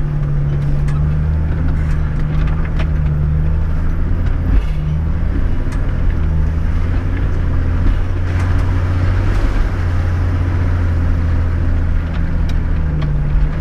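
Toyota LandCruiser 105 Series engine running at low, steady revs as the truck crawls along a rutted dirt track, heard from inside the cabin, with occasional light knocks.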